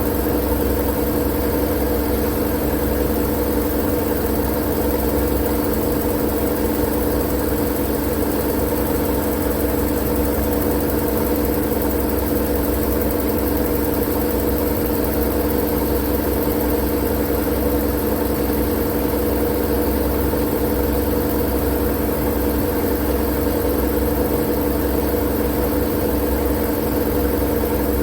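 Steady, unchanging white-noise drone with a low hum and a few held tones in it, like a machine running without change.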